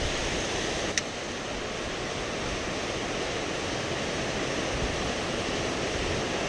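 Steady rushing of river water, with one brief click about a second in.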